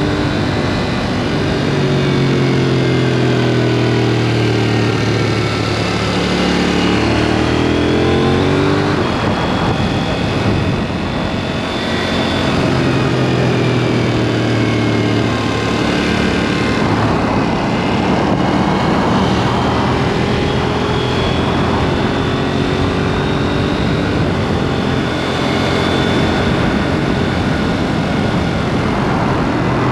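KTM 790 Duke's parallel-twin engine through its aftermarket SpeedPro Cobra exhaust, pulling hard with the pitch climbing for several seconds before dropping off, twice, then running more steadily.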